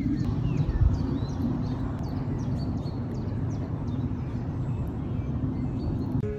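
Outdoor ambience: small birds chirping again and again over a steady low rumble. An acoustic guitar's first strum rings out right at the end.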